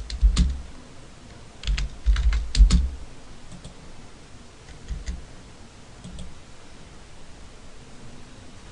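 Computer keyboard keystrokes: a few quick taps at the start, a longer run of clacking keys about two seconds in, then a few scattered single taps.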